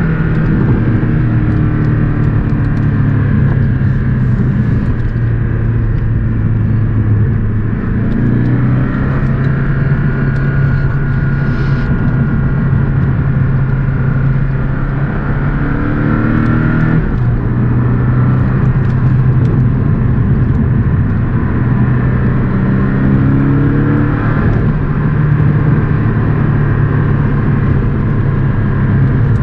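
Porsche 718 Boxster S's turbocharged four-cylinder engine pulling the car along at a steady drone, its pitch rising three times, about eight seconds apart, as it accelerates.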